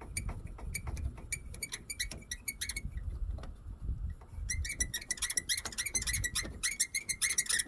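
Cutting the too-long end off an in-line fuel filter: a quick run of small clicks and squeaks from the tool working on the filter, coming thicker and faster over the last few seconds.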